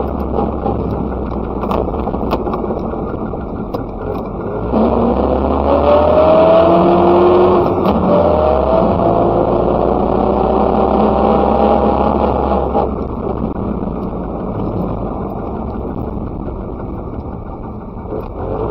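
Messerschmitt KR200's single-cylinder two-stroke engine driving along. About five seconds in it grows louder and climbs in pitch as the car accelerates, climbs a second time, then eases back to a steadier, quieter note after about thirteen seconds.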